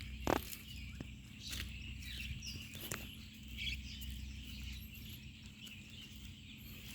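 Birds chirping here and there over a steady high-pitched background chorus, with a sharp click about a third of a second in.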